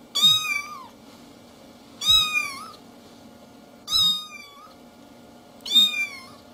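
A domestic cat meowing four times, about two seconds apart. Each meow is short and bends down in pitch at its end.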